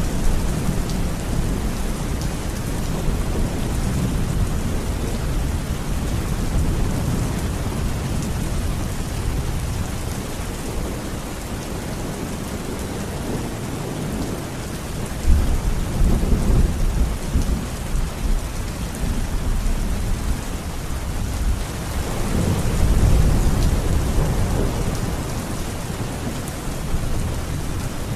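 Heavy rain falling steadily, with rolls of thunder rumbling low beneath it, one breaking in sharply about halfway through and another swelling near the end.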